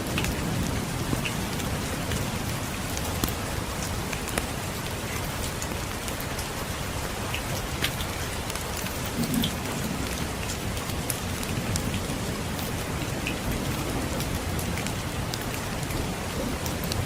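Steady rainfall with scattered sharp crackles and pops from a wood fire in a fireplace. A low rumble of distant thunder swells briefly about halfway through.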